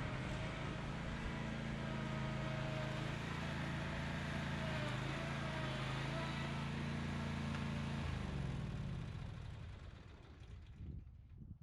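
Zero-turn riding mower engine running steadily, then shut off about eight seconds in, its pitch falling as it spins down to a stop.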